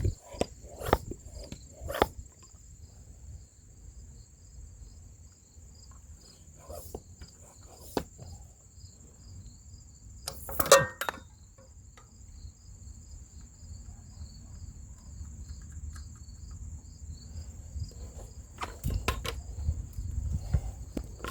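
Insects chirping steadily: a high, even tone with a regular run of chirps beneath it. Scattered knocks and clatter break in, the loudest a clatter about 11 seconds in, with more knocking near the end.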